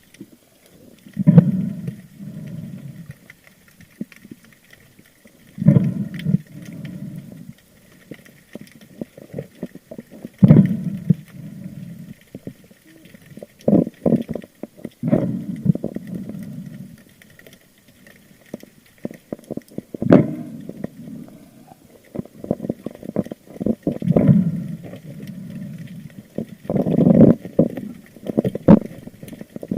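Muffled water noise picked up by a camera worn by a spearfisher, in low surges and knocks that come every few seconds.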